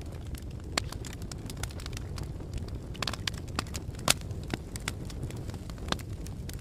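Fire crackling: a steady low rumble of flame with frequent, irregular sharp pops and snaps, the loudest about four seconds in.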